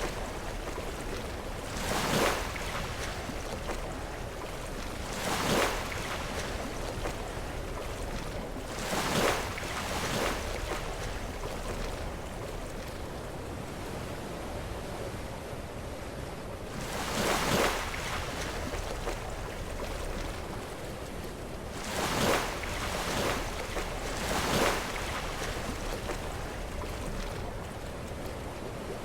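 Sea waves breaking against shore rocks over a steady wash of surf, with a surge every few seconds: two in quick succession near the start, a longer gap mid-way, then a cluster of three in the second half.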